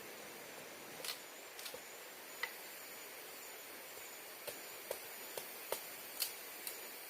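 About ten light, sharp clicks and snaps at irregular intervals over a steady background hiss with a faint high steady tone.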